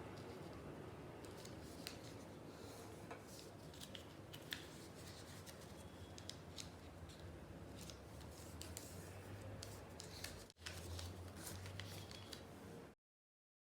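Faint crinkles and small, irregular clicks of a sheet of origami paper being folded and creased by hand over a low steady hum. The sound cuts to silence near the end.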